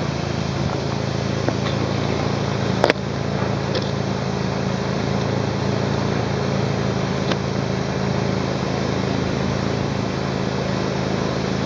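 Toyota AE86's 4A-GEU 1.6-litre twin-cam four-cylinder engine idling steadily, with one sharp click about three seconds in.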